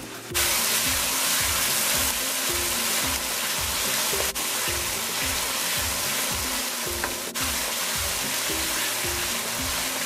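Curry masala paste sizzling in hot oil in a non-stick wok while being stirred with a wooden spoon: the curry base being fried down. The sizzle starts abruptly about a third of a second in and holds steady, over background music with a steady beat.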